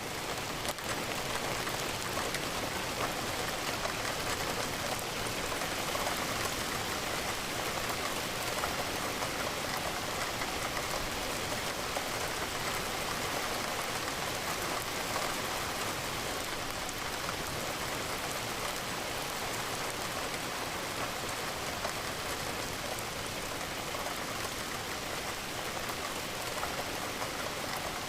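Steady rain falling against a window, an even, unbroken hiss.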